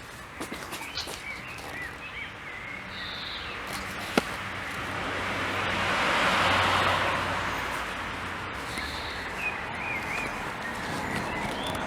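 A vehicle passes by outdoors: its noise swells to a peak about halfway through, then fades. Birds chirp briefly, and there is a single sharp click.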